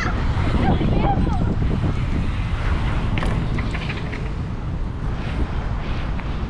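Wind buffeting the microphone as a steady low rumble, with faint, indistinct voices about half a second in and again around three seconds.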